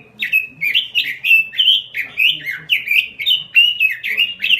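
Pekin robin (red-billed leiothrix) in full song: a fast, unbroken run of sweeping chirped notes, about three or four a second.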